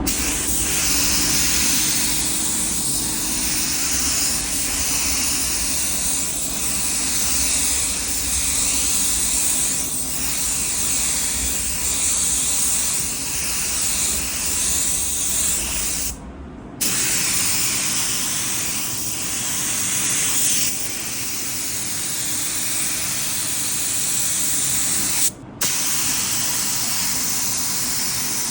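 Compressed-air paint spray gun hissing steadily as it sprays paint. The hiss cuts out briefly twice, a little past halfway and near the end.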